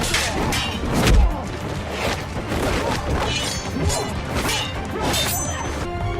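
Fight-scene soundtrack: a run of sharp blows, whacks and crashes over driving action music, the heaviest a deep thud about a second in.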